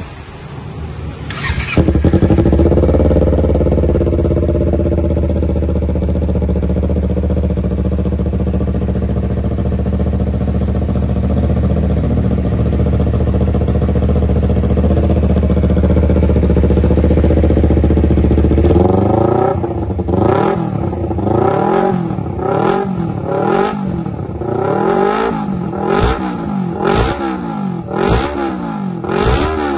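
Honda CBR250RR motorcycle engine with a custom aftermarket exhaust, starting up about two seconds in and idling steadily. About two-thirds of the way through it is revved again and again in quick blips, the pitch rising and falling about once a second.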